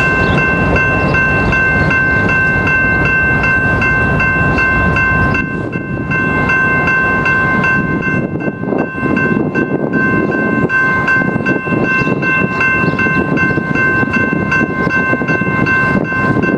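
Railroad crossing bell ringing rapidly and without a break, about three strikes a second. Under it is the low rumble of a train.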